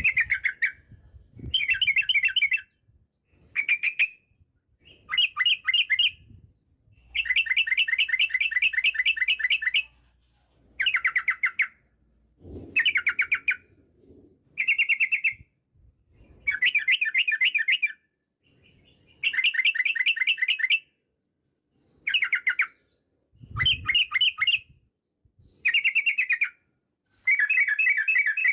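Yellow-vented bulbul (trucukan) singing: a series of short, rapid, bubbly phrases repeated again and again with brief pauses between them.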